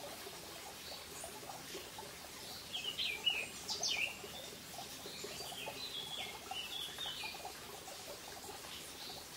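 Small mountain stream trickling and babbling over stones. A bird sings two short runs of high chirping notes over it, about three seconds in and again around six seconds in.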